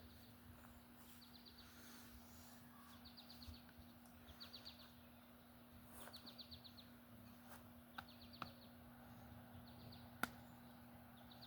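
Faint bird call: a short trill of rapid high chirps, repeated about once a second, over a low steady hum. A few sharp clicks come near the end, one of them the loudest sound.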